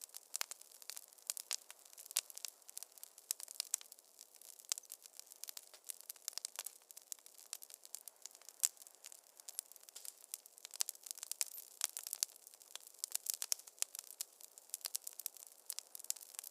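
Wood fire crackling in a fireplace: a dense run of sharp, irregular pops and snaps over a soft steady hiss.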